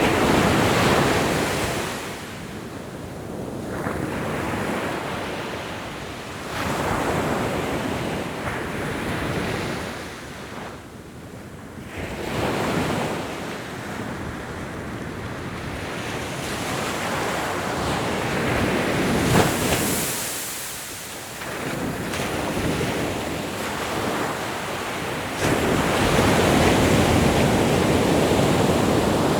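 Ocean waves breaking and washing on a shore, each surge swelling and fading over a few seconds; a long, loud surge of surf builds near the end.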